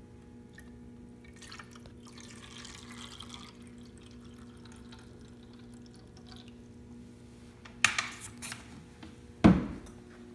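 Tormek SuperGrind 2000 wet grinder running with a steady low hum, with a brief hiss about two seconds in. Near the end come a few sharp clacks, then one loud knock.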